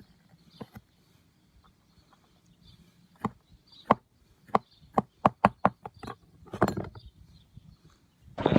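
A string of sharp taps and knocks, the kind made by handling and setting down small parts of a lawnmower's air filter assembly: a few spaced ones, then a quick run of about five, a brief rustle, and a louder knock near the end.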